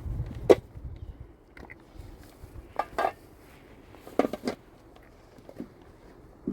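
A series of sharp knocks and clinks, like hard objects being handled and set down, in small groups about a second apart, with wind rumble dying away in the first moment.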